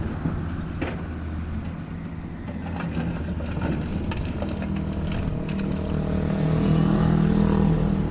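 Diesel engine of a Cat 305.5E2 mini excavator running, with a few knocks early on; from about five seconds in the engine note rises and grows louder as it works harder.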